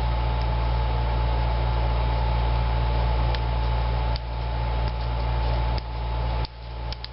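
Air conditioner running with a steady whooshing hum, the noise dipping and coming back a few times in the second half, with a few faint clicks from small parts being handled.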